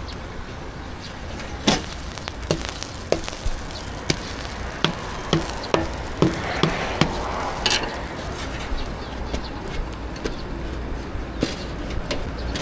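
Knife chopping on a cutting board: about a dozen sharp, uneven strikes over some six seconds, then it stops. A steady low hum runs underneath.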